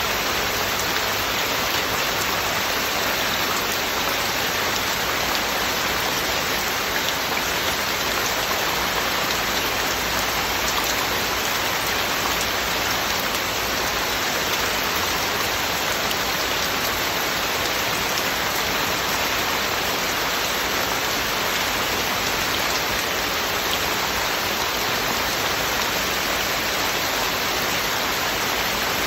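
Heavy rain falling steadily, a dense even hiss of drops with no breaks or changes.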